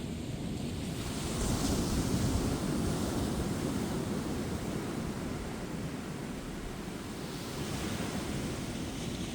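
Ocean waves breaking and washing on a beach, a steady surf noise that swells about a second in and again near the end, with some wind on the microphone.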